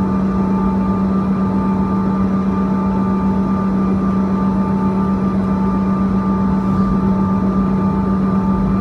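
Cabin noise of a Bombardier CRJ-200 airliner: the steady drone and whine of its rear-mounted GE CF34 turbofan engines over a rushing noise, holding at a constant level.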